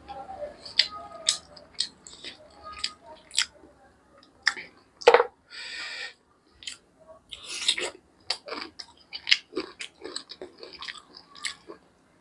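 Close-up sounds of a person chewing chicken: irregular wet smacks and clicks of the mouth. The loudest smack comes about five seconds in and is followed by a short hiss.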